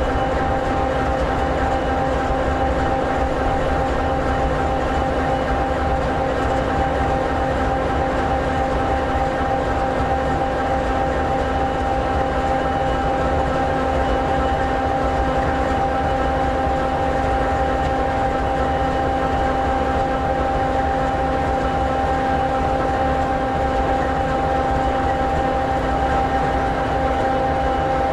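An SD60E locomotive's EMD 16-710G3B 16-cylinder two-stroke diesel engine idling, an even low rumble with a few steady humming tones above it that do not change.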